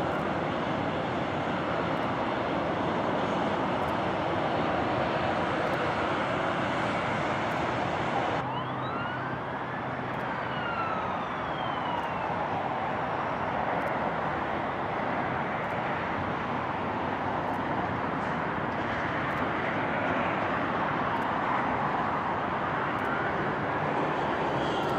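An emergency-vehicle siren wailing, its pitch gliding slowly up and down, over a steady rush of noise.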